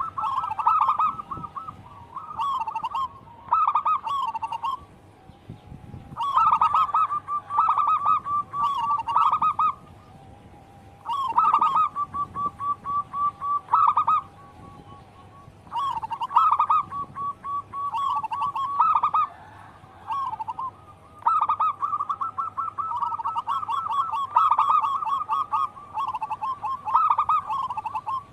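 Zebra doves (perkutut) singing: repeated phrases of quick, soft cooing notes, each a few seconds long with short pauses between them. Some phrases end in a run of evenly spaced staccato notes.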